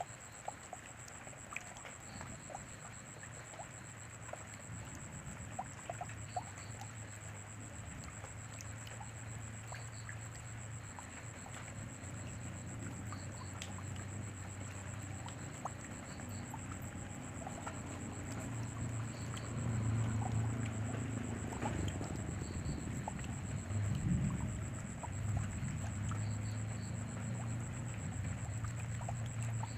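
Steady rain with scattered drops ticking and a low rumble that swells in the second half. Faint high chirps repeat every couple of seconds.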